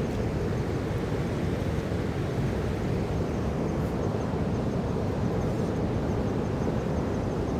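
Steady rushing of water from a waterfall, a continuous even noise heaviest in the low range.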